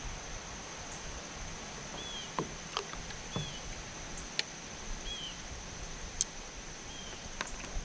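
Wind and water noise around a fishing kayak, with several light knocks and clicks against the boat and four short chirps, over a steady high-pitched whine.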